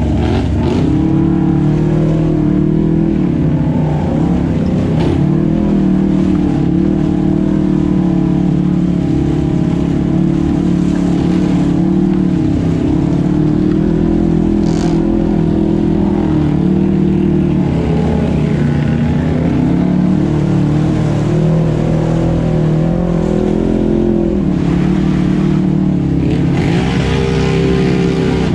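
Off-road vehicle engine running hard, its pitch rising and falling over and over as the throttle is worked on and off.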